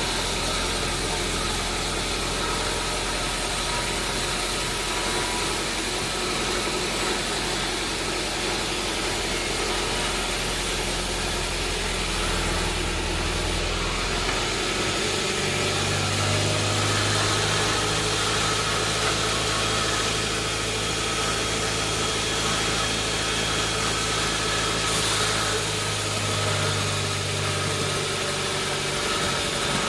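Sawmill machinery running steadily with an engine-like drone. Its low hum changes tone about halfway through, then holds steady again.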